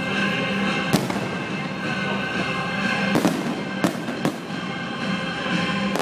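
Fireworks display: sharp bangs of shells bursting, one about a second in and a cluster between three and four and a half seconds in, over music playing with the show.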